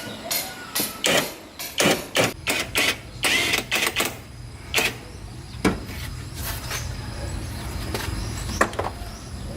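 Irregular clanks and clicks of metal parts and hand tools being handled, thickest in the first half, over a low steady hum that starts about two seconds in.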